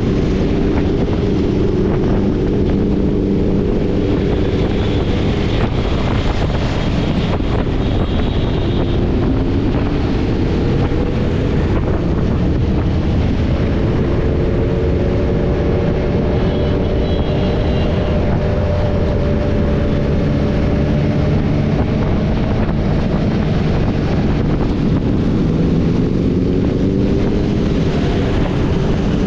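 Motorcycle engine running while riding, its pitch slowly rising and falling with the throttle, under heavy wind noise on the microphone.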